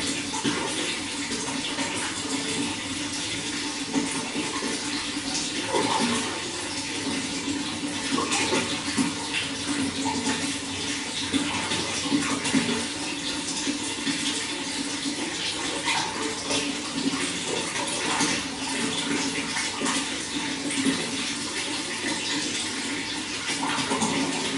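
Running water flowing and splashing steadily, a continuous rushing with small irregular splashes.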